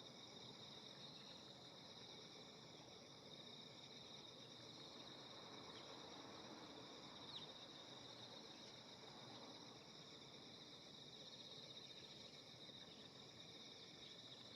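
Faint, steady chorus of insects, several continuous high-pitched trills over a low outdoor hum, with one brief sharp sound about halfway through.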